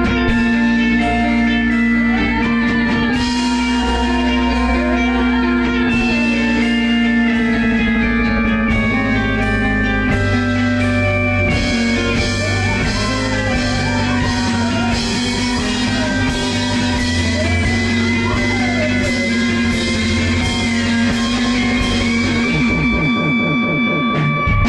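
Instrumental rock passage played by a band in rehearsal: sustained guitar notes with bending, wavering lead lines over bass and drums, with a drum fill breaking in right at the end.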